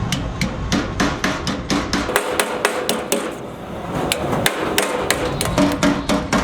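Rapid hammer blows on metal in a radiator repair shop, several strikes a second with a faint ring after them, over a steady low rumble.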